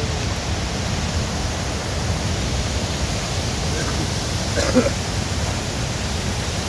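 Steady rushing noise of heavy rainy-season water, with a short faint call about four and a half seconds in.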